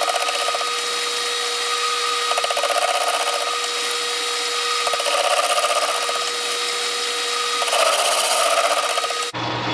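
Metal lathe taking a light facing cut across the brazed build-up on a cast-iron mower spindle housing: a steady machining tone, with three stretches where the cut turns rougher and changes tone, which sounded like the tool hitting some cast iron. The sound cuts off abruptly just before the end.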